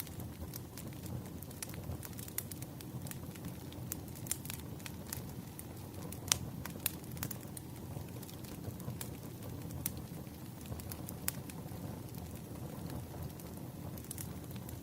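Wood fire burning: a steady low rumble with irregular sharp crackles and pops of burning logs, a couple of louder pops a little after six seconds in.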